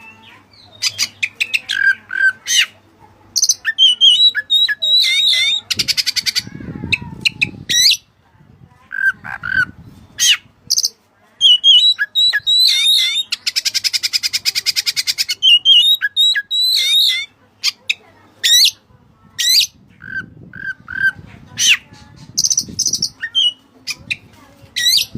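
Oriental magpie-robin (kacer) singing hard: a loud, varied song of sharp whistles, downslurred notes and two long buzzy rattles, broken by short pauses. It is a song used as a lure to draw a bird of the opposite sex.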